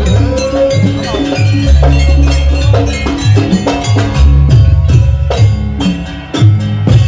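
Live Javanese jaranan ensemble music. Quick, evenly repeating strikes on metal bells or gongs and drums play over long, deep gong-like notes, with a wavering melody at first.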